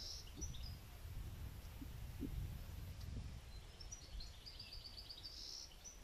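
A small songbird singing quick trills of rapid, high repeated notes, one right at the start and another about four seconds in, over a steady low rumble.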